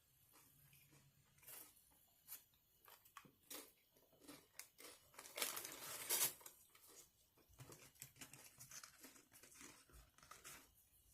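Paper or foil food wrapper being handled, crinkling and tearing, with a louder stretch of rustling and tearing about five to six seconds in, among small clicks and taps.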